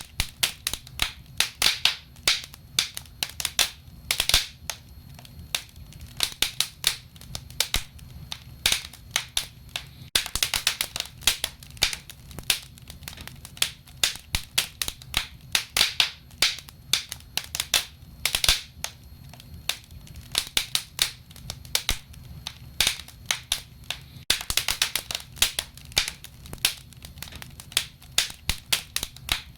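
Wood fire burning in a stove, crackling and popping with many sharp, irregular snaps over a low steady rumble.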